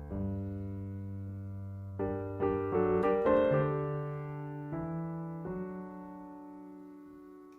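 Electric piano playing alone: sustained chords over low bass notes, a quick flurry of notes in the middle, then a chord left to ring and fade.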